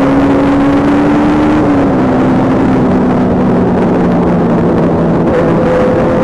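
Superbike engine running steadily at speed, its pitch slowly creeping up, with a dense rush of road and wind noise. A lower tone steps down in pitch about two seconds in and again near the middle.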